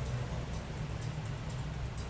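Steady low rumble of a car driving on wet road, heard from inside the car.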